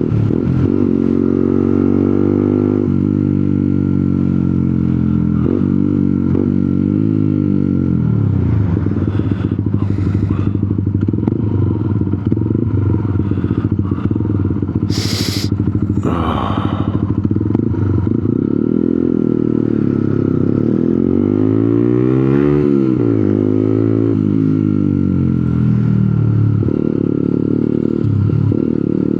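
125cc motorcycle engine running on the move, its revs climbing and falling again and again through gear changes. About halfway through there is a short, loud hiss.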